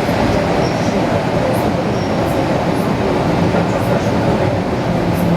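ED4M electric multiple unit running on the rails, heard from inside the carriage: a steady rumble of wheels and traction motors with a few faint clicks.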